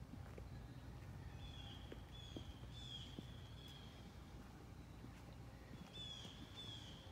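A songbird calling in short, high, slightly falling notes, a run of them a second or so in and another near the end, over a faint low steady rumble.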